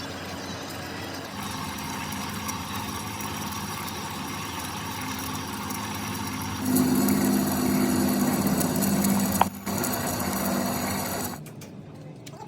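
A workshop machine's motor running steadily. It grows louder in two steps, the second about halfway through, dips briefly, then cuts off shortly before the end.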